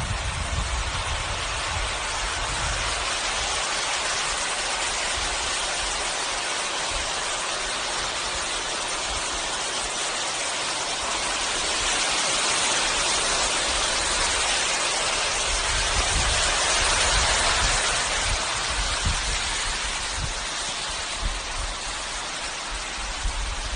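Rushing water of a desert wadi in flood, a steady loud hiss, with wind buffeting the microphone in low rumbles.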